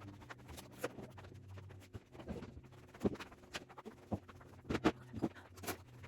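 Food containers, jars and bottles knocking and clinking as they are taken out of a refrigerator and set down on a table, with a dozen or so short knocks over a low steady hum.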